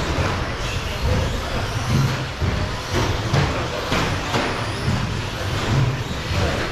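Radio-controlled short course trucks racing around the track: a steady mix of motor and tyre noise, with a few sharp knocks partway through.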